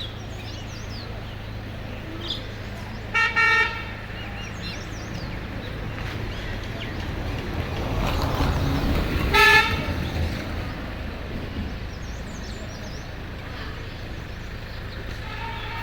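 A vehicle horn honks twice, briefly, about 3 seconds in and again about 9 seconds in. The second honk comes as a vehicle passes, its noise swelling and fading. Small birds chirp throughout.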